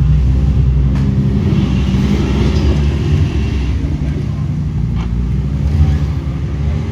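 Off-road rock-crawling buggy's engine running under varying throttle, its pitch rising and falling, with a couple of faint clicks about a second and five seconds in.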